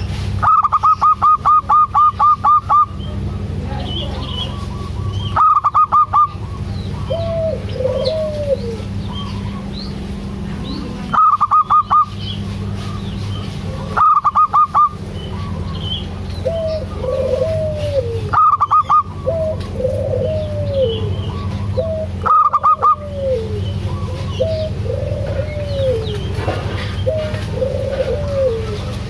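Zebra dove (perkutut) cooing: repeated short arching coos, broken every few seconds by loud quick trains of about ten higher clipped notes. A steady low hum runs underneath.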